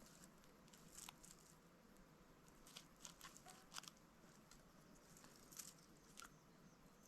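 Near silence, with a few faint, scattered clicks and ticks of small handling noises.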